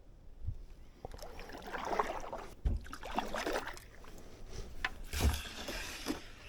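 Kayak being paddled through shallow swamp water: irregular paddle splashes and swishes, with two dull low thumps.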